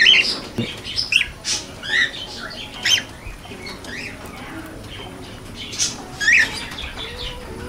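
Cockatiels giving short chirping calls at irregular intervals, several in the first few seconds and a couple more near the end.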